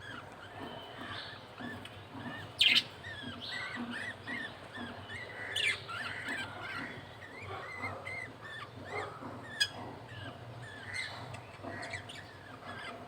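Budgerigars chirping and twittering in many short calls, with a few louder sharp chirps, about two and a half and six seconds in: the sounds of a male budgie feeding a chick.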